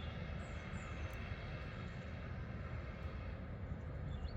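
Steady low outdoor rumble with no clear source, and a couple of faint high chirps about half a second in; the repeated high beeping stops just before and resumes just after.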